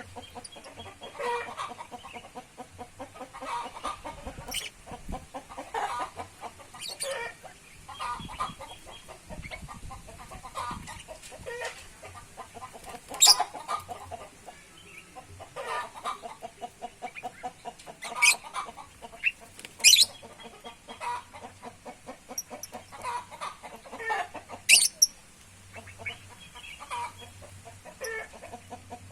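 Birds calling: many short, repeated clucking calls, with a few sharp, loud chirps standing out about 13, 18, 20 and 25 seconds in.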